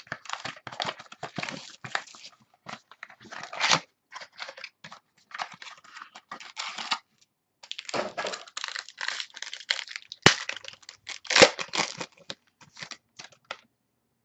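Foil trading-card pack wrappers being torn open and crinkled, with cards handled in between, in irregular crackly rustles. There is a single sharp click about ten seconds in.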